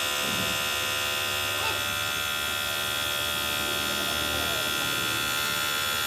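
Steady machine hum with many held tones, like a running electric motor.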